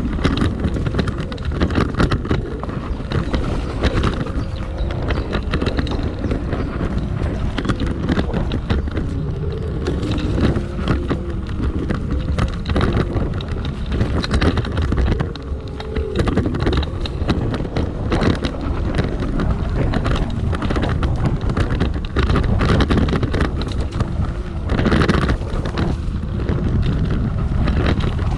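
Dual-motor electric scooter ridden off-road: heavy wind buffeting on the microphone over a steady rumble, with frequent knocks and rattles as it runs over rough ground.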